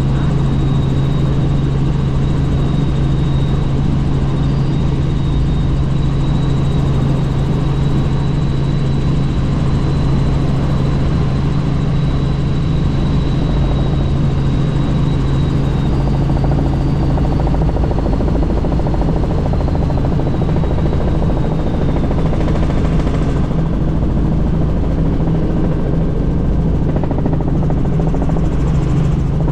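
Helicopter in flight heard from aboard: a steady, loud low drone from the rotor and engine, with a faint high whine above it that slowly shifts in pitch.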